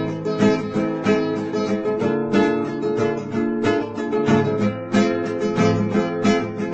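Instrumental music led by strummed acoustic guitar, with a steady rhythm of plucked chords and no singing.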